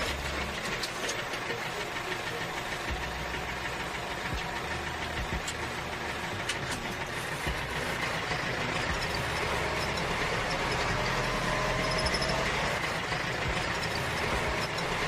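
Small electric motor running steadily, with a faint whine and a few light clicks.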